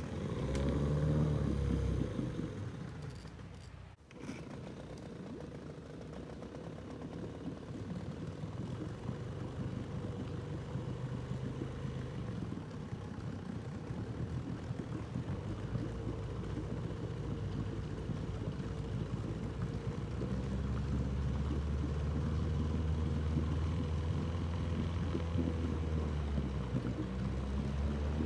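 Small outboard motor on the jon boat running. It revs up and back down in the first couple of seconds, dips sharply about four seconds in, then runs steadily and picks up a little from about twenty seconds in.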